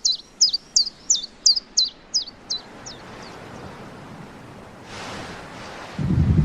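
A bird chirping in a quick series of sharp, falling calls, about three a second, fading away over the first three seconds. A soft rushing hiss then swells, and near the end a loud low rumble sets in.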